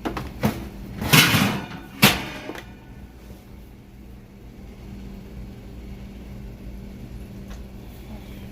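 A few clicks and a short clattering rattle, then a sharp knock about two seconds in, over a steady low hum.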